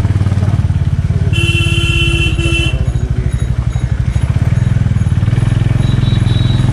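A 350 cc single-cylinder motorcycle engine running at low road speed with an even pulsing beat. A horn sounds for about a second and a half, starting about a second in.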